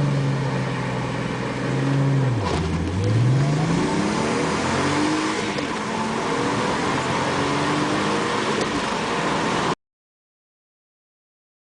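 Volkswagen Golf Mk4 petrol engine held at steady revs, which dip sharply as the car pulls away about two seconds in. The revs then climb again and again through the gears in a full-throttle 0–100 km/h acceleration run. The sound cuts off suddenly near the end.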